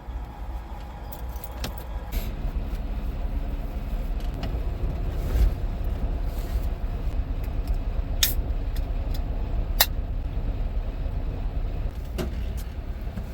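Semi truck's diesel engine idling with a steady low rumble, with a few sharp clicks over it; the two clearest come about eight and ten seconds in.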